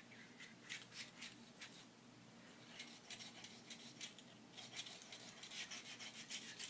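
Faint, irregular scratchy rubbing strokes of a cotton swab (Q-tip) scrubbing inside the mouthpiece of a small animal's water bottle, coming more thickly about halfway through.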